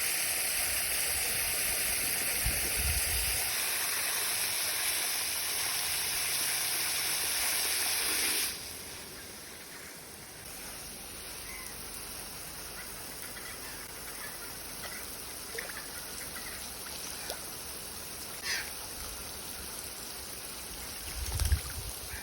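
Garden hose spraying water into a bird bath with a steady hiss that cuts off suddenly about eight seconds in. A few faint splashes follow near the end.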